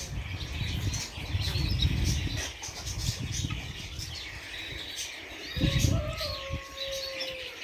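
Birds chirping in a backyard bird and poultry pen, with bouts of low flapping or rustling. Near the end comes one long, level drawn-out call lasting about two seconds.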